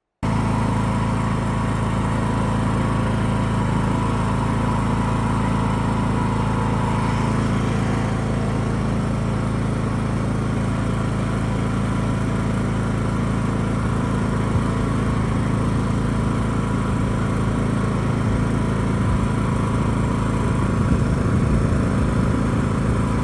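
John Deere E100 riding mower's engine running steadily, its no-start fault cured by a replaced part.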